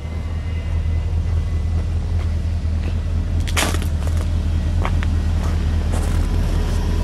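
Chevy Silverado 3500 pickup's gas engine idling with a steady low rumble, with a few sharp clicks about halfway through.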